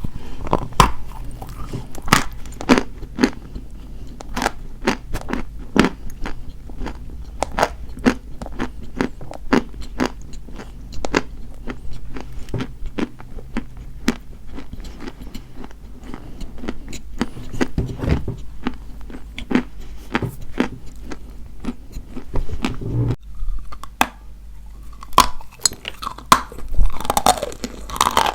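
Dry white chalk being bitten and chewed close to the microphone. It gives sharp, crisp crunches several times a second.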